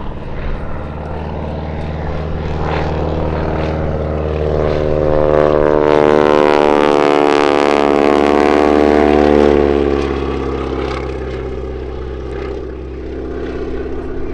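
A Boeing Super Stearman biplane's 450 hp radial engine and propeller on a low slow-speed pass. The drone grows louder, is loudest about halfway through, drops slightly in pitch as the plane goes by, then fades.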